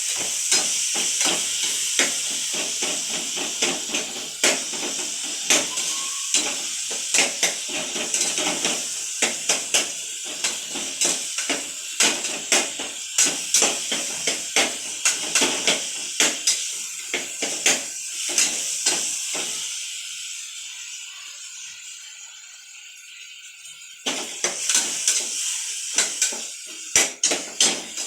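Tomatoes sizzling in hot oil in a pan, with a metal ladle scraping and knocking against the pan again and again as it stirs. Near the end the stirring pauses and the sizzle fades, then both come back suddenly.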